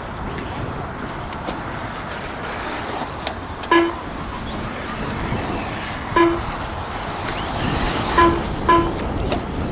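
Electric RC buggies running on a dirt track, a steady hum of motors and tyres. Short electronic beeps sound four times: once about four seconds in, once about six seconds in, and twice close together near the end. These are typical of a lap-timing system beeping as cars cross the line.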